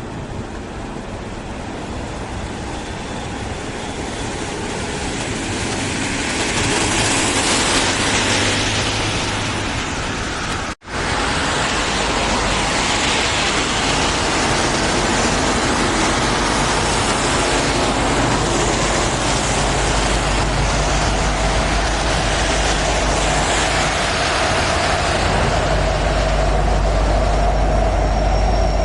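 CN container freight train rolling past, a steady rushing rail noise from the wagons that grows louder over the first several seconds and cuts out for an instant about 11 seconds in. After about 20 seconds a deeper rumble and a steady mid-pitched tone join it.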